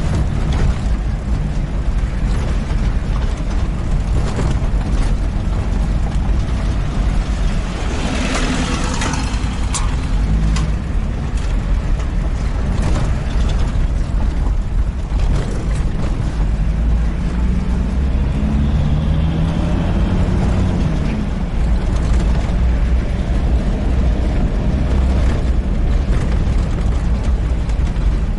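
4x4 jeep driving over a rough unpaved road. The engine runs under a steady low rumble while the body and fittings rattle and knock over the bumps. The engine note changes briefly partway through.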